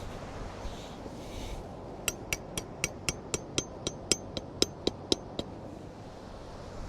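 The butt of a hatchet hammering a tent stake into the ground: a quick run of about fourteen sharp strikes, roughly four a second, each with a brief high ring.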